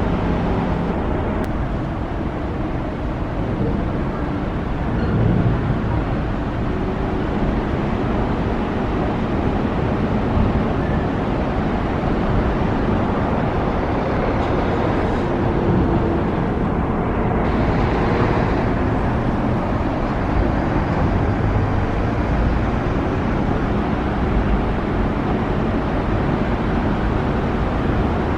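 Steady road traffic noise: vehicles running along a city street, with no distinct horn or siren standing out.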